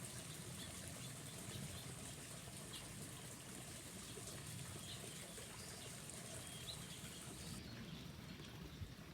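Faint outdoor garden ambience with scattered short, distant bird chirps over a low background rumble. A thin, steady high hiss drops away near the end.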